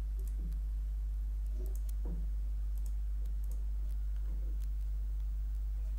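A few scattered clicks from a computer mouse and keyboard, over a steady low hum.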